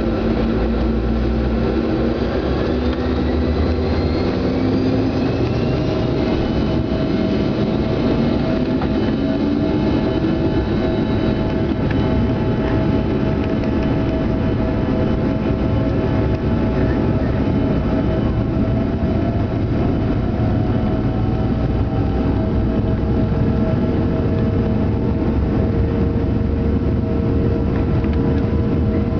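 A Canadair CRJ-200's two rear-mounted turbofan jet engines, heard from inside the cabin. Their whine rises in pitch over the first several seconds as they spool up to takeoff thrust, then holds as a steady roar over a low rumble.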